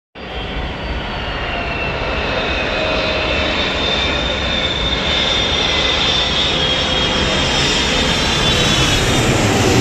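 Boeing 777 freighter's twin turbofan engines on approach: a steady jet roar with a high fan whine that drifts slowly down in pitch, growing louder as the aircraft comes closer.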